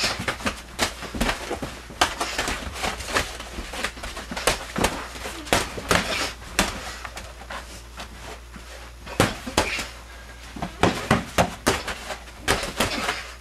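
Scuffling in a small room: a rapid, irregular run of sharp knocks, thuds and slaps, dozens of them, with a brief lull in the middle.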